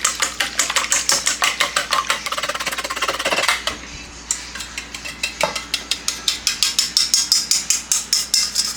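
Pancake batter being stirred briskly in a mixing bowl, the utensil clicking against the bowl in quick, even strokes about five a second, with a short pause a little past the middle.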